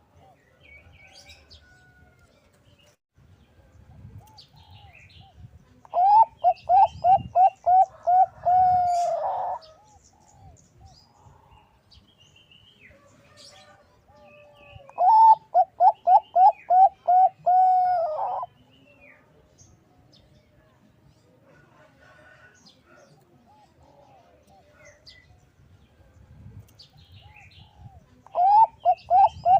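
Bangkok-type zebra dove (perkutut bangkok) singing in three bouts of quick rolling coos. Each bout is about eight short notes in a row, closing on a longer drawn-out note, and the third bout starts near the end. Faint chirps of small birds are heard between the bouts.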